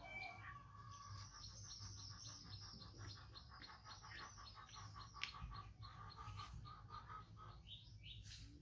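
Faint bird chirping: a long run of rapid, evenly repeated short high notes that stops near the end, with one sharp click about five seconds in.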